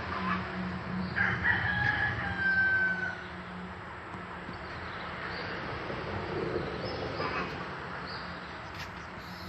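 A rooster crows once, a drawn-out call that falls slightly in pitch at the end, over a steady low hum.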